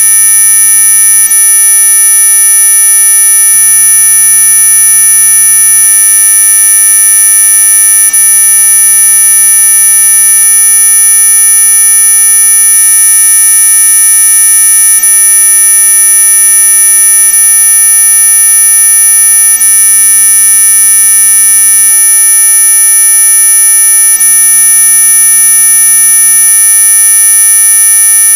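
Synthesized anti-mosquito repellent tone: a loud, steady electronic buzz made of several fixed pitches at once, the strongest very high and piercing, holding without change.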